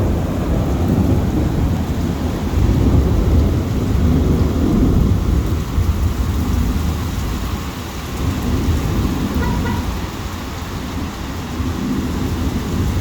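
Heavy rain pouring down with a deep, continuous rumble under it. The rumble is strongest through the first half and eases a little after about eight seconds.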